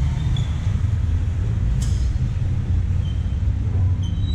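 Small motorcycle engine running steadily at low revs while moving slowly, with one sharp click about two seconds in.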